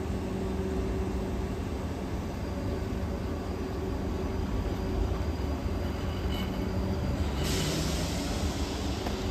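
Class 458 electric multiple unit standing at the platform, its onboard equipment humming steadily at a low pitch. About seven and a half seconds in, a sudden hiss of air joins the hum and carries on.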